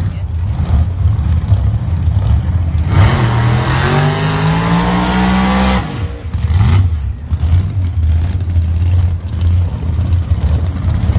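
Supercharged big-block V8 of a methanol-burning drag-race Chevy Nova idling with a lumpy rumble, then revving with a steadily rising pitch for nearly three seconds during a burnout. It cuts off sharply and falls back to a rough idle.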